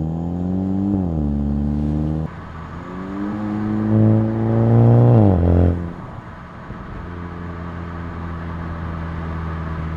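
2019 Volkswagen Jetta GLI's 2.0-litre turbocharged four-cylinder heard through a Neuspeed stainless cat-back exhaust, miked at the exhaust, under acceleration. The note climbs, falls back and drops off about two seconds in, climbs again louder to a peak around five seconds, and cuts back sharply. It then settles into a steady lower drone at cruise.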